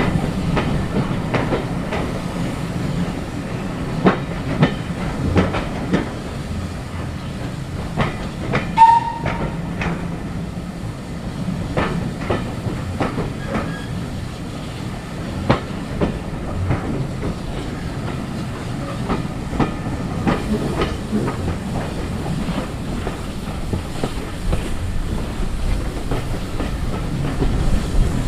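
A train running on jointed track, its wheels clacking over the rail joints in irregular clicks over a steady low rumble, with some hiss. About nine seconds in there is a brief high-pitched note, the loudest moment.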